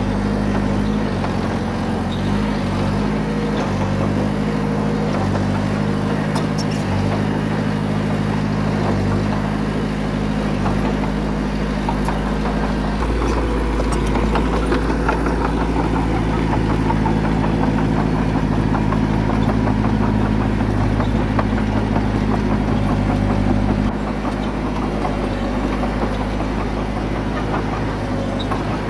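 Heavy construction machine's diesel engine running steadily, working harder and louder from about halfway in, then easing back near the end.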